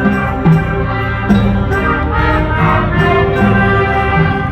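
Combined 7th and 8th grade school concert band playing, with held chords and a couple of sharp percussion hits.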